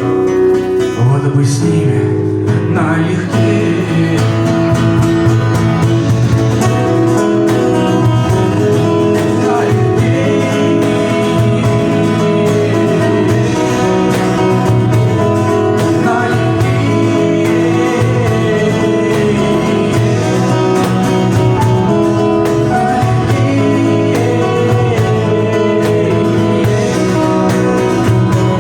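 Live acoustic band music, led by strummed acoustic guitar, playing steadily as a jam; it swells louder about a second in.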